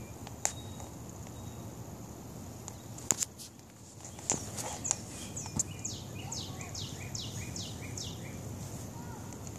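A songbird singing a fast run of downward-slurred whistled notes, about four a second, through the second half. There are a few sharp clicks earlier, all over a low steady rumble.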